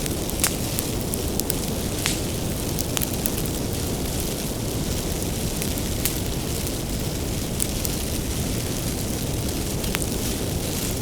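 Wood bonfire burning: a steady low rumble of the flames with sharp crackles and pops scattered throughout, the loudest pop about half a second in.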